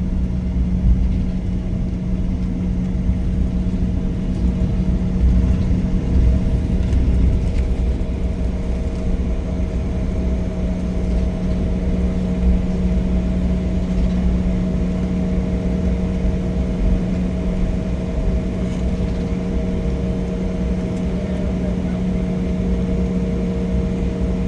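Cabin noise inside an Embraer E175 jet on the ground after landing: a steady multi-tone hum from the idling engines and air system over a low, wavering rumble.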